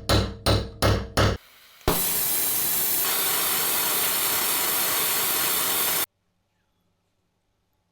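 A last few hammer blows, about three a second, stop shortly after the start. Then a steady jet of compressed air hisses for about four seconds and cuts off abruptly.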